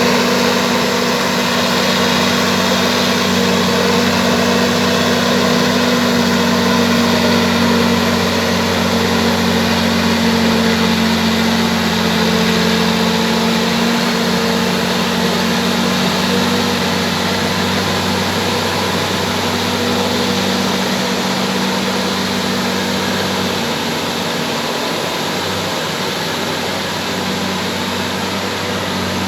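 Bulldozer's diesel engine running steadily, easing a little in loudness after the middle.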